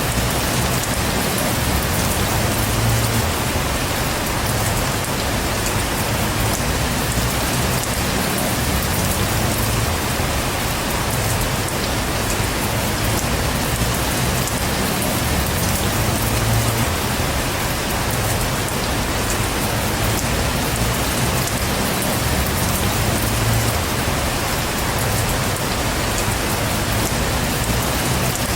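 Heavy rain falling steadily, an even hiss of drops with a low rumble underneath.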